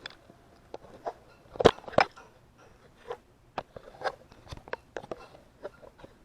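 Irregular clicks and knocks, like hard objects being handled, with two louder knocks about a second and a half and two seconds in.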